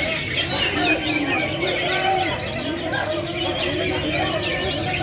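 Many caged cucak hijau (green leafbirds) singing at once on contest poles: a dense, overlapping stream of chirps and warbled phrases, with lower calls and voices of the crowd beneath.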